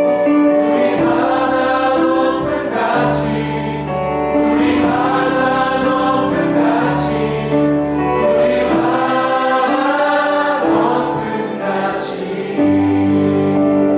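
Live contemporary worship music: a group of voices sings long held notes over keyboard and bass, with the bass note changing every couple of seconds.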